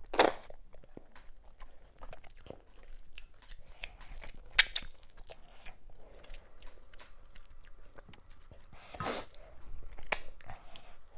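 Close-miked eating sounds: a person chewing and biting assorted cow meats with fufu and okra soup. There are many small wet mouth clicks, and a few louder crunches near the start, in the middle and twice near the end.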